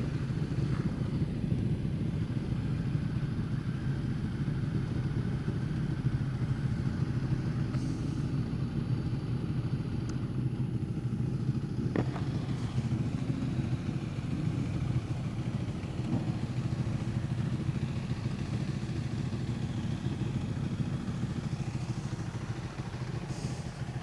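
Ducati XDiavel's 1262 cc L-twin engine running steadily at an even pitch, with a single sharp click about halfway through.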